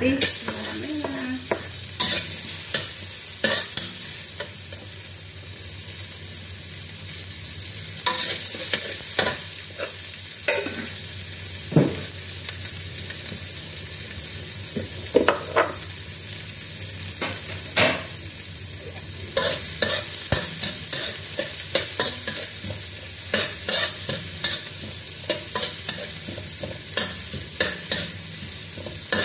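Chopped shallot and garlic sizzling in hot oil in a steel wok, the sizzle starting as they are scraped in, while a metal spatula scrapes and knocks against the wok as they are stir-fried.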